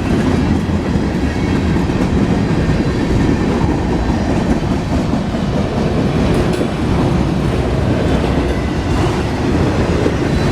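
Mixed freight train passing close by: a steady, loud rumble of freight cars rolling over the rails, with clickety-clack of wheels over rail joints.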